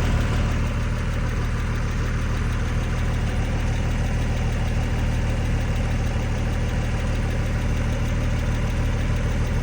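Porsche 997 911's flat-six engine idling steadily at the exhaust tips, still cold a minute or so after a cold start.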